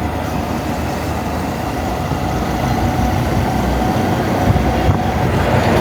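Honda Monkey motorcycle's single-cylinder engine running steadily on the move, with wind noise rushing over the camera microphone.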